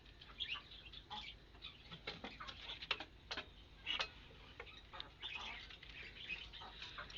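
Caged birds making scattered light ticks and short high chirps at an irregular pace.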